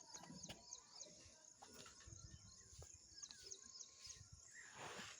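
Faint rural outdoor ambience with small birds chirping now and then. A brief rush of noise comes near the end.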